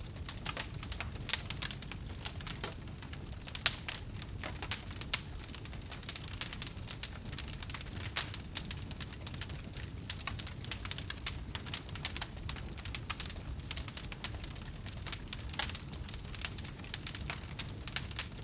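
Wood fire crackling: a steady stream of small snaps with a few louder pops, over a low rumble.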